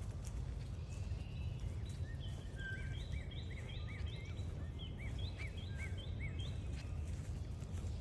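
A steady low rumble of outdoor background noise with faint footstep clicks, and from about two seconds in a songbird gives a run of quick, arched chirps for about five seconds.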